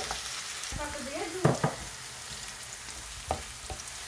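Diced potatoes, red onion and green chilies sizzling in oil in a frying pan, stirred with a wooden spoon that knocks against the pan a few times, loudest twice about a second and a half in.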